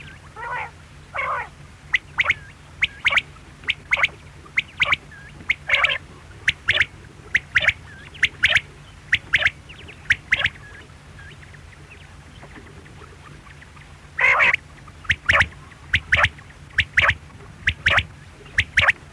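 Quail calling: a run of short, sharp notes in quick groups of two and three, with a few longer, lower notes. The calls stop for about three seconds midway, then resume.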